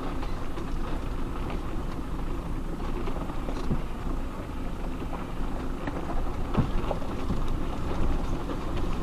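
Off-road vehicle driving over a rough, rocky track: a steady low rumble from the engine and tyres, with a few scattered knocks and rattles.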